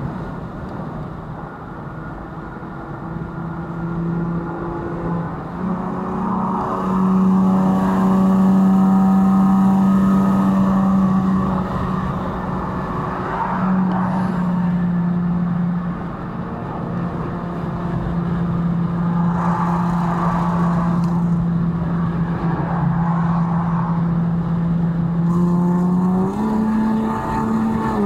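V6 engine and exhaust drone of cars accelerating hard at highway speed, heard from inside the cabin over road and tyre noise. The steady pitched note steps up about six seconds in, dips briefly in the middle and rises again near the end.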